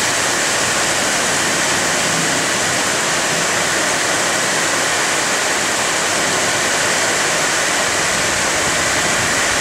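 Heavy rain pouring steadily onto tree foliage: an even, unbroken hiss of a downpour.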